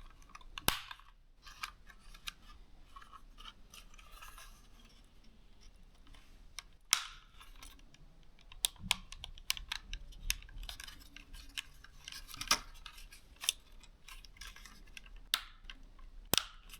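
Irregular sharp plastic clicks and taps as the small side gimbal covers of a DJI Mini 3 drone housing are handled and clipped into place, with a few louder single clicks.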